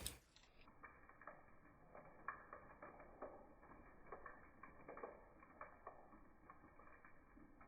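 Faint, irregular pattering and ticking of light rain and snow falling, after a brief louder noise that dies away at the very start.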